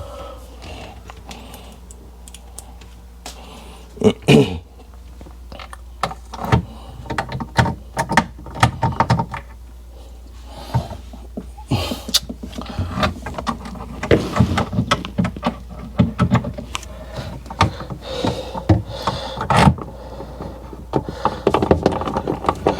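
Irregular clicks and knocks of a hand screwdriver and plastic refrigerator parts being handled as screws are put back in, busier in the second half.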